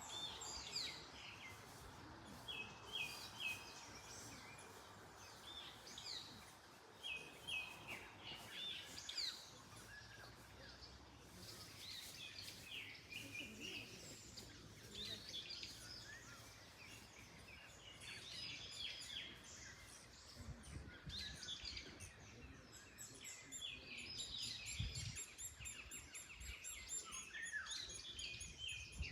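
Several wild birds singing and calling, short repeated chirps and trills throughout, over a faint rustle of wind in the trees.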